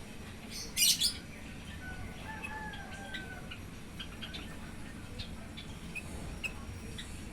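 A sooty-headed bulbul calling: two loud, harsh calls about a second in, then a softer gliding whistled note and scattered short chirps.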